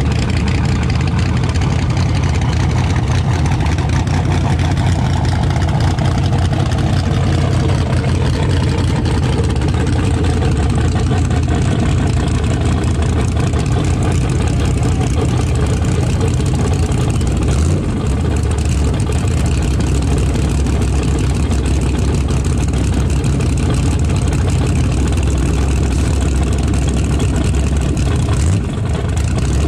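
Race car engines running at idle with a steady, loud low rumble; a fainter engine note falls in pitch a few seconds in.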